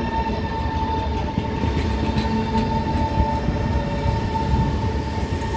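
Renfe Media Distancia train moving along a station platform: a steady whine over a low rolling rumble, with a few faint clicks from the wheels.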